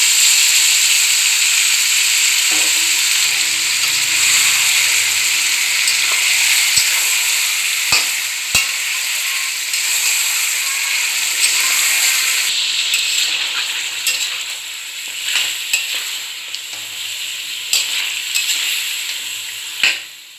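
Marinated chicken pieces sizzling loudly in hot oil in a metal kadai while being stirred and seared with a metal spatula, with a few sharp clicks of the spatula against the pan. The sizzle is loudest at the start and gradually eases off.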